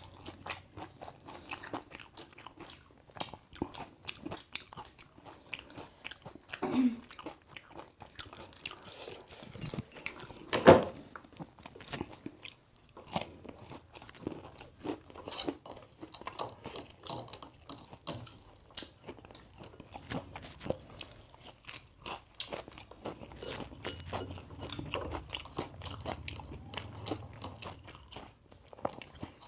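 A person biting and chewing food close to the microphone, with a steady run of small crunching clicks. One loud knock about eleven seconds in stands out above the chewing.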